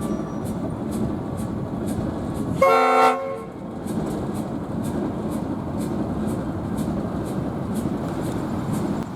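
One short blast, about half a second long, from a diesel locomotive's five-chime S5T air horn about three seconds in. It sounds over the steady rumble of a passing train.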